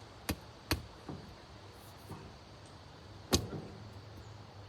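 Three sharp knocks or clicks: two close together near the start and a louder one about three seconds in.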